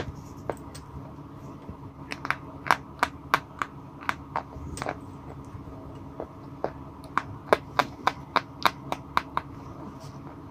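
White chalk sticks crunching as they are chewed close to the microphone: sharp, crisp clicks in two irregular runs of about a dozen each, a few a second.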